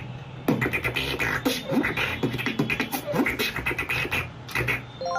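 Beatboxing: a fast string of mouth-made clicks and percussive hits, mixed with short vocal swoops that fall in pitch.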